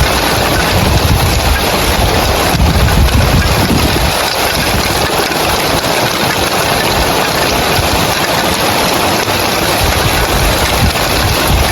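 Heavy rain falling on roof tiles, a dense steady hiss, with a low, uneven rumble underneath that eases about four seconds in.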